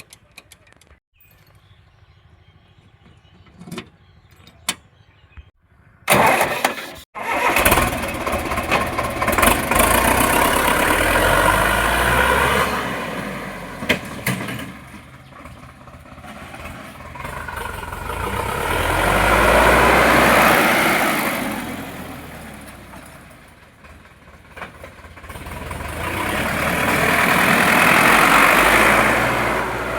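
Sonalika DI 750 tractor's diesel engine starting about six seconds in, after a few faint clicks, then running with its sound swelling and fading several times, loudest around the middle and near the end.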